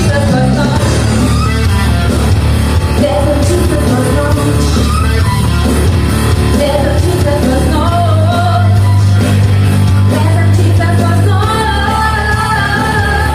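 A rock song played live by a band: a female lead vocal singing over a steady bass line and drums.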